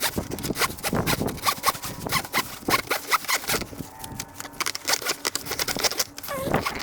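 Electrical wires being fed back into the rooftop air conditioner's housing: irregular rustling, scraping and clicking of cable against plastic and metal. A short pitched sound comes near the end.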